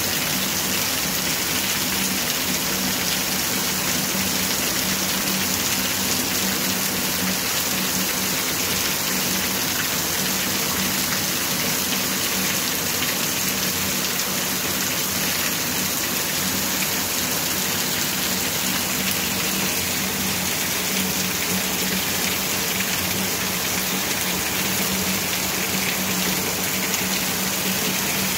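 Heavy rain pouring onto a wet concrete yard: a steady, dense hiss of drops splashing on the ground.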